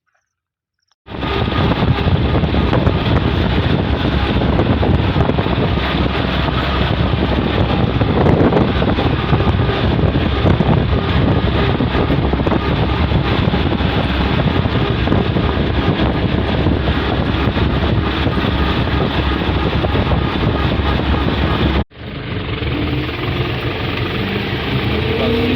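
MTZ Belarus tractor's diesel engine running steadily and loudly, starting about a second in. The sound cuts out abruptly about 22 seconds in, then resumes with a few steady tones over it.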